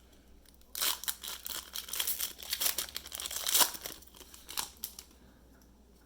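Wrapper of a Panini basketball card pack being torn open and crinkled. The rustling starts about a second in, is loudest about three and a half seconds in, and dies away near five seconds.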